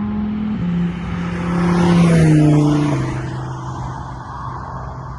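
A car driving past on a race track, its engine note dropping in pitch in steps as it goes by, loudest about two seconds in and then fading away.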